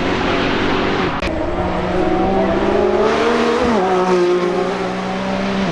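High-performance car engine running hard under throttle. Its pitch drops about a second in, climbs slowly, then falls sharply again a little past halfway, over a steady hiss.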